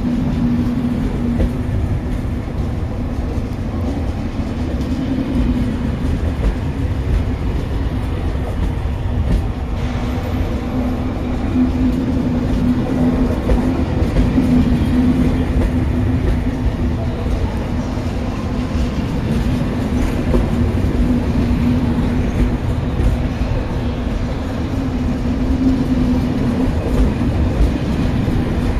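Corail passenger coaches rolling past along a station platform: a steady rumble of wheels on rail, with a constant low hum under it.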